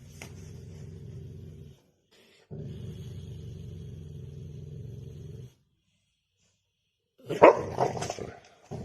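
A dog growling low and steadily in two long stretches with a short break between, then snarling and barking loudly a few times near the end.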